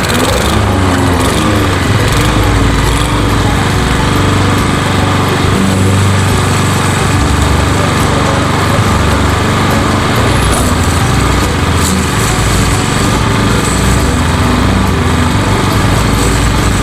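Craftsman walk-behind lawnmower's PowerMore 140cc single-cylinder engine running steadily while cutting grass, its load rising and falling a little; it now keeps running after a sticky automatic choke that made it start and then die.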